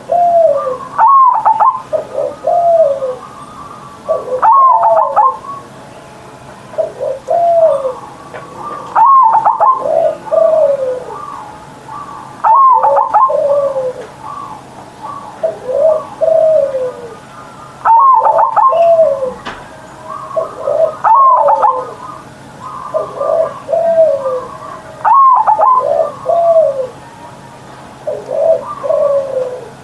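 Zebra dove (perkutut) cooing its full song over and over: each phrase opens with a few quick short notes and runs into a string of falling, rolling coos, repeating about every three to four seconds.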